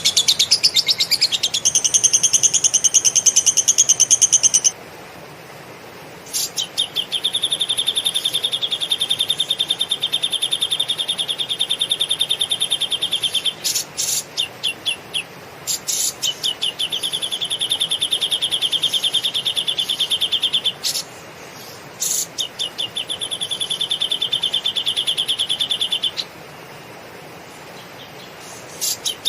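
Cucak jenggot (grey-cheeked bulbul) singing lovebird-style 'ngekek' material: long, very fast rattling trills of several seconds each, about four of them, separated by short pauses and stuttering restarts.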